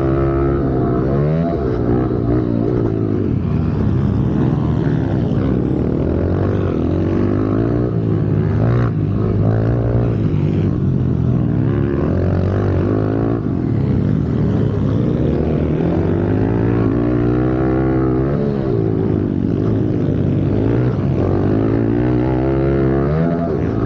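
Pit bike engine revving hard and falling back again and again, its pitch climbing on each throttle opening and dropping off when shut, as in racing laps around a track.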